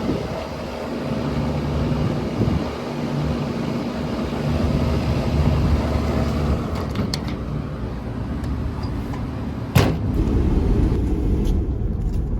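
Steady low hum of a running Trane rooftop package air conditioner, with one sharp click about ten seconds in.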